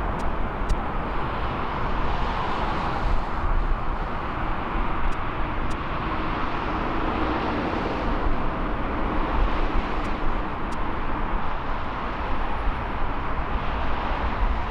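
Jet airliner engine noise at an airport: a steady rumble and roar with no clear rise or fall, and a few faint clicks.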